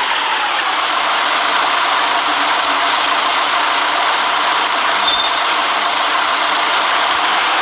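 City bus running at a steady pace: an even engine and road noise, with a brief faint high squeak about five seconds in.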